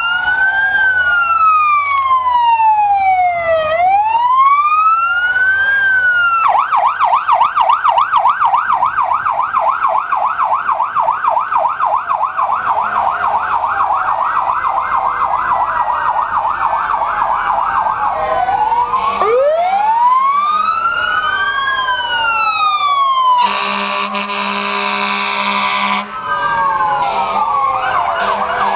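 Emergency vehicle sirens: a slow wail rising and falling every few seconds switches about 6 s in to a fast yelp, then back to the wail. About 23 s in, a loud steady horn blast lasts a couple of seconds, and after it several sirens sound over one another.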